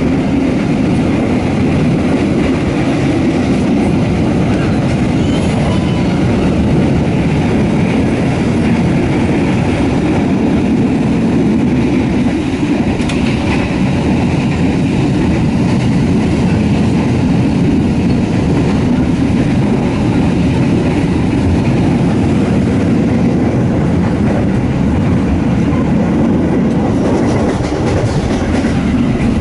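Indonesian passenger train in motion, heard from inside a carriage: a steady, even rumble of wheels on the rails that never lets up.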